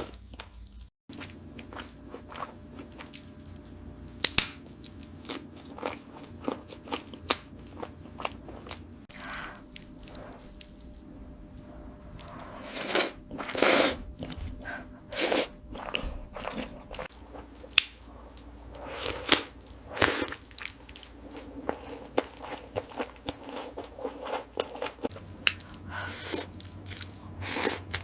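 Close-miked eating sounds: biting into and chewing seafood, with irregular wet clicks, smacks and crunches. The loudest bites come about halfway through.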